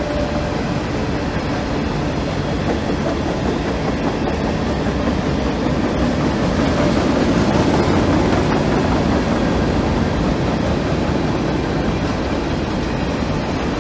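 Covered hoppers and boxcars of a mixed freight train rolling past at track speed on welded rail: a steady rumble of steel wheels on the rails. It swells a little past the middle.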